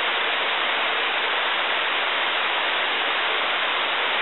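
Heavy tropical rain falling on the rainforest canopy, a dense, steady hiss with no breaks.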